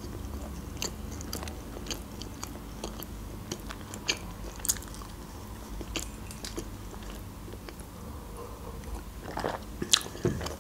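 A person chewing a mouthful of mini pizza close to the microphone: irregular small mouth clicks, with a few louder ones about four seconds in and near the end.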